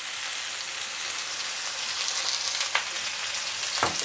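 Chicken, vegetables and egg noodles sizzling in hot oil in a stir-fry pan: a steady frying hiss, with a couple of light knocks in the second half.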